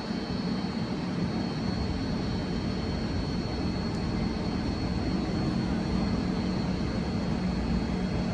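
Standing double-deck commuter train idling at the platform, its onboard equipment giving a steady low hum with a thin, steady high whine above it.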